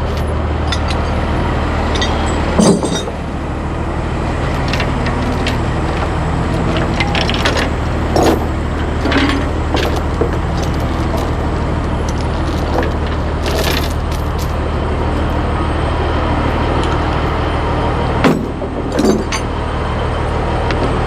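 A heavy diesel engine running steadily at idle, with scattered metallic clinks and two louder knocks, about three seconds in and near the end.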